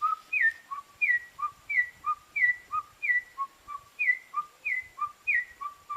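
A man whistling an imitation of a wild chicken's call: a short low note followed by a higher note that drops in pitch, repeated about eight times at an even pace.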